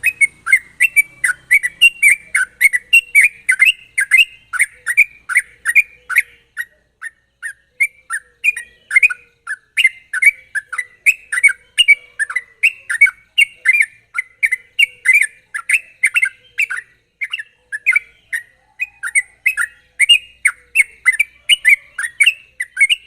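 Yellow-vented bulbul (trucuk) singing a fast, unbroken run of short chirpy notes, about three a second, in the rapid 'ropel' style that keepers use as a lure to set other trucuk singing.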